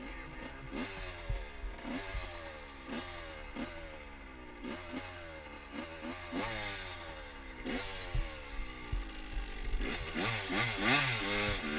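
Motorcycle engine revved over and over: the pitch jumps up and then falls back roughly once a second. About ten seconds in the revving gets louder and rises and falls more quickly.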